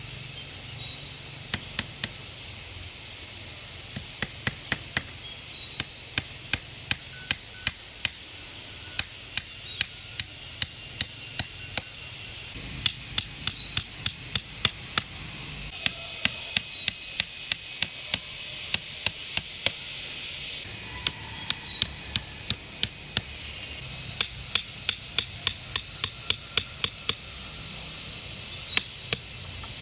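Repeated sharp strikes of a hand tool, hammering or chopping, in runs of several at about two a second with short pauses, over a steady high insect drone.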